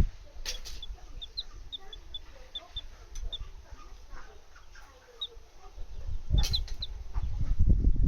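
Chicks peeping: short, high, repeated peeps in a loose series. From about six seconds in, a louder low rumbling noise builds underneath.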